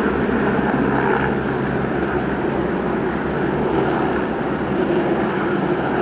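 Helicopter running, a loud, steady engine and rotor noise.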